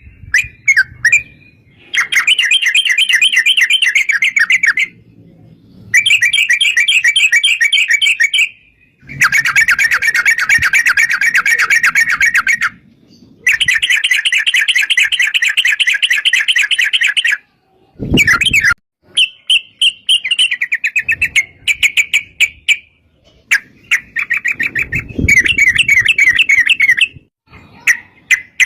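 Yellow-vented bulbul (trucukan) singing long, rapid chattering runs of notes, each run lasting several seconds with short pauses between. A brief loud thump comes about two-thirds of the way through.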